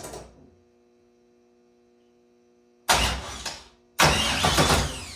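GM LS3 V8 engine cranked by its starter motor in two short attempts, about three seconds in and again a second later, without catching; the starter whines down in a falling pitch as the second crank ends. It turns over but does not fire, which the owner puts down to having no fuel.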